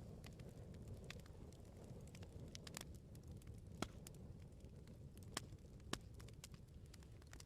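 Wood fire crackling: a steady low rumble of flames with scattered sharp pops and snaps, three louder pops in the middle of the stretch.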